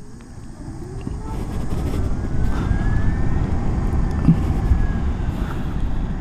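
Zero SR electric motorcycle pulling away, its motor giving a faint whine that rises in pitch as it speeds up. Under it is a steady low rumble of wind and road noise that grows louder over the first two seconds.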